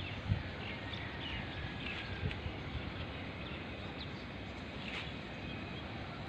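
Scattered short bird chirps over a steady low background rumble of open-air city ambience.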